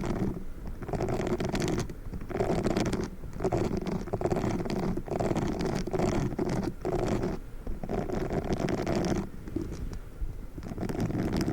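Pink spiky ASMR sponge squeezed and rubbed against the microphone in repeated strokes about once a second, with a brief pause near the end.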